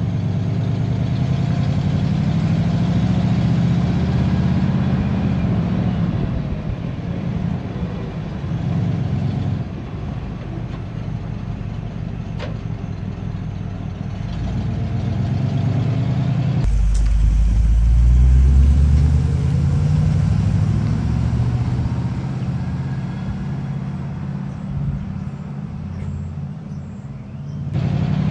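1955 GMC 100 pickup's V8 engine running while the truck drives, revving up and easing off twice. About two-thirds of the way in, the sound changes suddenly to a heavier, deeper rumble.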